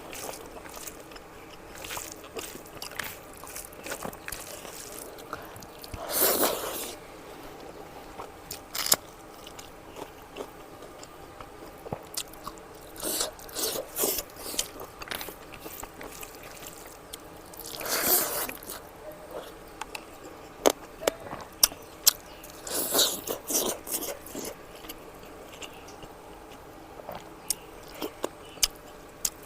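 Close-up eating sounds of a person chewing and biting fatty mutton curry: wet mouth clicks and smacks scattered throughout, with a few louder hissing rushes about six, eighteen and twenty-three seconds in.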